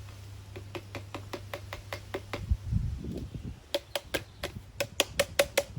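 Rapid run of sharp taps, about five a second, as a mealworm container is knocked to shake out the last mealworms. A dull thump and some handling noise split the run about two and a half seconds in, and the taps then come back louder.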